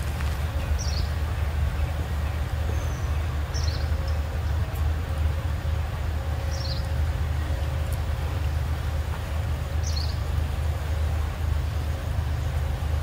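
A steady low rumble, with a bird giving one short falling chirp about every three seconds, five times over.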